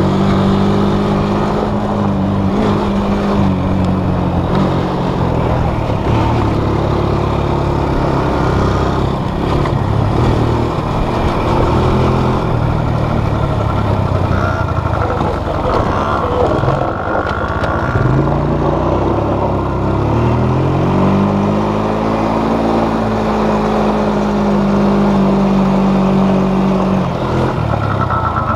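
Small off-road vehicle engine running under a rider's throttle, its pitch repeatedly dropping and climbing. It holds a steady high pitch for several seconds near the end, then falls away.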